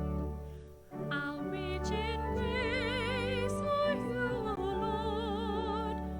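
Organ holding sustained chords; about a second in, after a brief dip, a solo voice with a wide vibrato enters, singing a melody over the organ.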